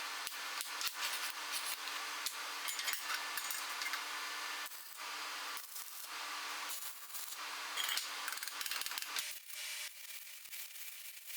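Stick arc welding with a 2.0 mm covered electrode on a 100 V welder: the arc crackles and hisses steadily, breaking off briefly about five seconds in and again near nine seconds.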